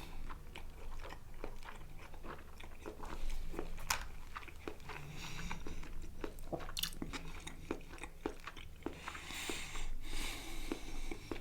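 Close-up mouth sounds of chewing a mouthful of chicken kebab with rice and hummus: many short wet smacks and clicks at an uneven pace.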